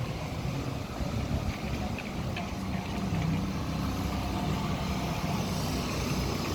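A motor vehicle engine running, a low steady rumble.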